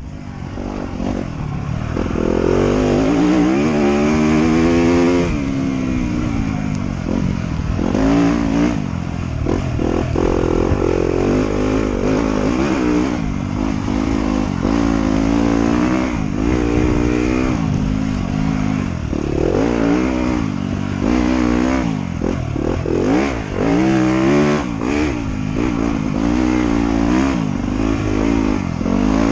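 Motorcycle engine being ridden on a dirt trail, revving up and easing off over and over as the throttle is worked, with a steady low rumble underneath.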